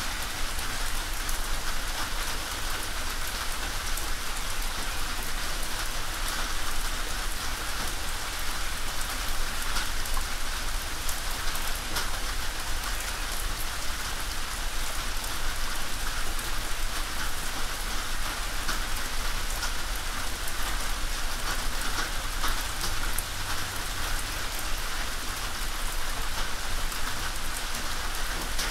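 Steady rain drumming on a tin roof: a dense, even patter of drops that keeps up without let-up.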